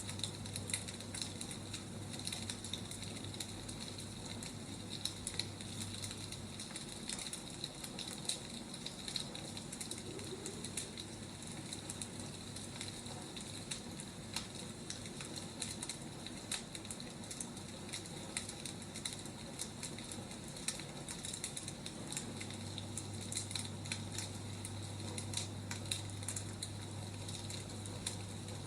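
Firewood burning with a steady crackle of many small, irregular pops and snaps. A low steady hum under it stops about a quarter of the way in and comes back in the last quarter.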